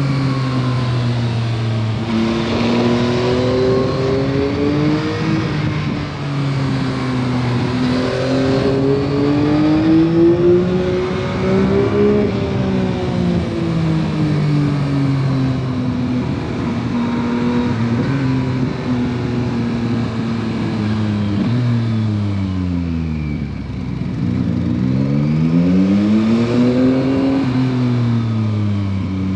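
2021 Yamaha MT-09 SP's 890 cc inline-three engine through its stock exhaust, rising and falling in pitch as it accelerates and shifts through the gears on the road. A little before three-quarters through, the revs fall almost to idle, then climb and ease off again.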